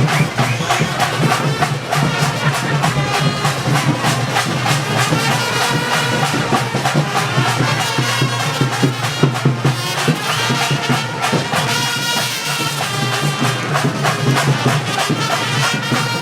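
Kavadi procession music: horns playing a melody over fast, steady drumming.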